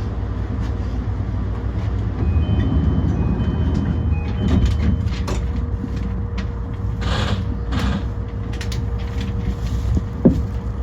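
E235 series electric train running along the line: a steady low rumble of motors and wheels on rail, with a short run of alternating high beeps a couple of seconds in and a few sharp clicks near the end.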